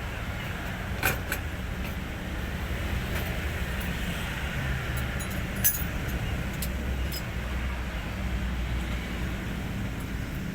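Hino 500 truck's diesel engine idling steadily, with two sharp metallic clinks, about a second in and near the middle.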